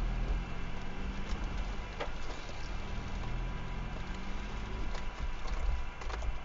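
A vehicle's engine running at low revs, heard from inside the cab, as it crawls along a rough grassy lane. The engine note eases off as it slows to a stop near the end. A few sharp clicks and knocks come about 2 seconds in and again near the end.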